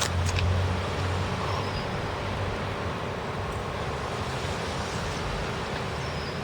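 Steady outdoor noise with a low rumble that fades out over the first couple of seconds, and two sharp clicks right at the start.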